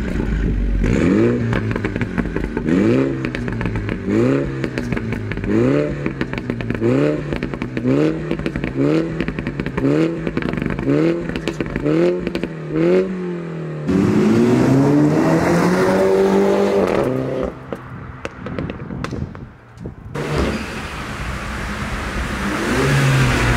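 Mini John Cooper Works 2.0-litre turbo four-cylinder with a JCW Pro exhaust, revved while standing in quick blips, about one a second and a dozen or so in a row, with popping from the exhaust. Next comes one longer rev that rises and falls away. Near the end the car is heard on the move.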